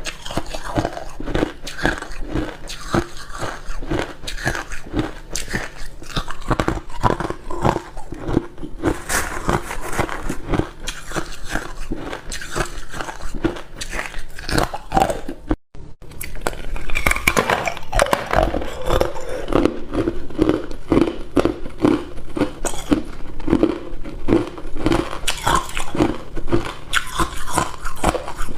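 A person biting and chewing hard ice cubes in a dense run of loud crunches. The crunching cuts out sharply for a moment about halfway through, then carries on.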